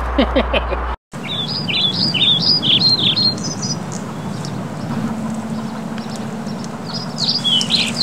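A songbird singing a quick run of repeated down-slurred chirping notes for about two and a half seconds, then a shorter phrase near the end, over outdoor background noise with a steady low hum.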